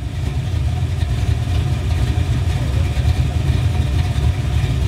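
1968 Dodge Charger's 440 V8 engine running at low revs with a deep, uneven exhaust rumble as the car rolls slowly up a driveway.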